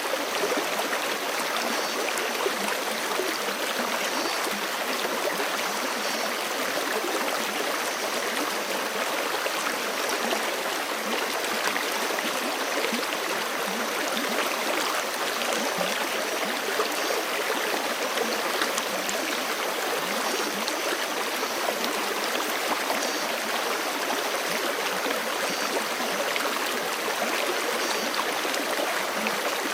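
Forest creek rushing steadily: an even, unbroken wash of flowing water.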